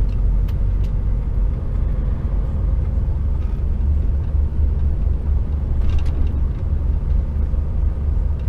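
HGV container lorry under way: its engine and tyres make a steady low rumble. A few short clanks from the trailer come near the start and about six seconds in.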